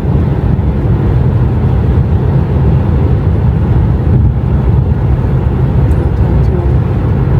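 Steady low rumble inside a moving vehicle, with no breaks or sudden sounds.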